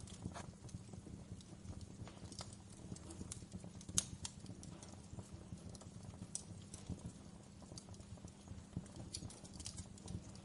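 Wood fire crackling in a fireplace: faint, irregular pops and snaps over a low steady rumble, with one sharper pop about four seconds in.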